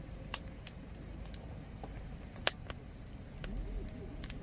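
Wood campfire crackling, with irregular sharp pops, one louder pop about halfway through.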